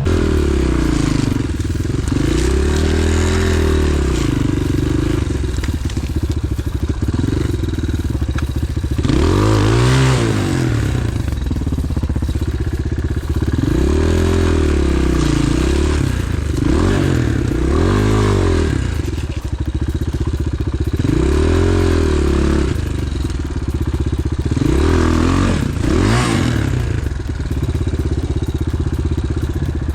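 Off-road motorcycle engine running under the rider, revving up and falling back again and again, about seven throttle surges, with scraping and clattering over rough ground.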